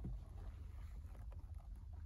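Car engine idling, heard from the driver's footwell as a low steady rumble, with a few faint light clicks.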